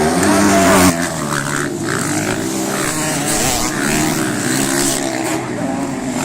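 Motocross dirt bike engine revving hard. The pitch climbs through the first second, falls away sharply, then rises and falls repeatedly as the throttle is worked.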